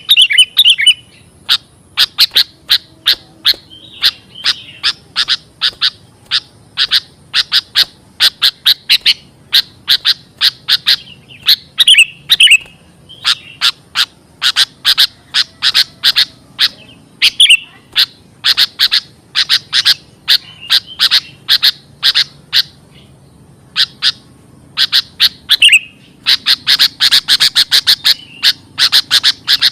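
Sooty-headed bulbuls giving loud, rapid chattering calls: runs of short, sharp chips several a second, broken by brief pauses and an occasional slurred note. It is a lure call of the kind used to draw bulbuls in.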